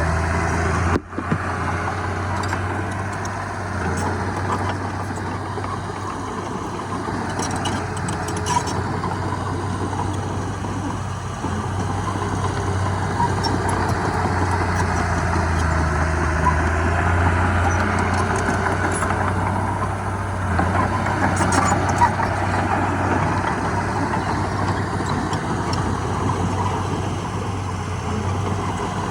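Heavy diesel engine of earthmoving machinery running steadily with a low drone. The sound cuts out briefly about a second in, and there are a few faint clicks later on.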